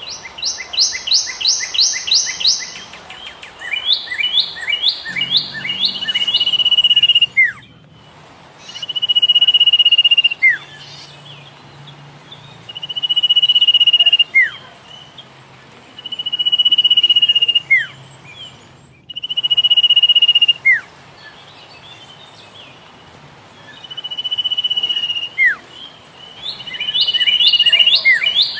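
Philippine pied fantail calling. Quick runs of rapid, chattering notes come at the start and near the end, and between them about six long, even whistles, each ending in a quick downward slide.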